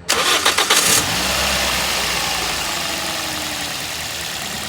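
Toyota Corolla GLi petrol engine cranked by the starter for about a second, catching and running, with its revs slowly falling back toward idle after the tappet adjustment.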